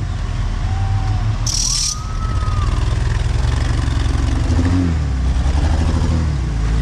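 Off-road 4WD truck's engine running steadily, with a short hiss about a second and a half in.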